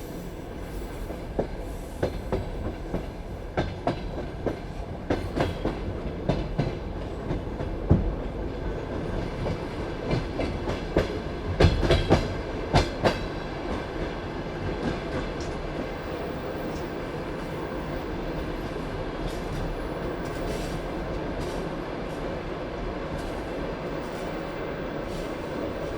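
Passenger train wheels rolling over the track. For the first half there is a run of sharp, irregular clacks and knocks, loudest around twelve seconds in. After that they give way to a steady rolling rumble.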